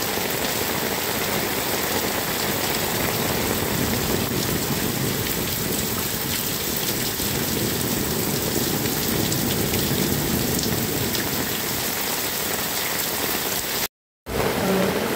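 Heavy rain pouring steadily on roofs and a road, a dense even hiss. It cuts out to silence for a moment near the end, then resumes with a steady low tone underneath.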